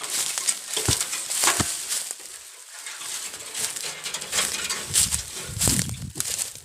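Irregular crackling and rustling handling noise, with low bumps around five to six seconds in.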